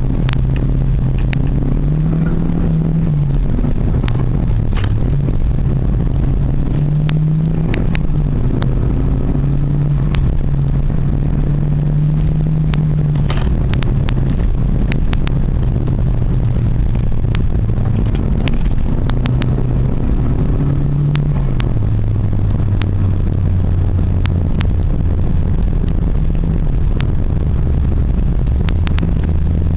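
Renault 5 GT Turbo's turbocharged four-cylinder engine running hard, its revs rising and falling, then settling to a lower, steadier note about twenty seconds in. Scattered knocks and rattles sound throughout.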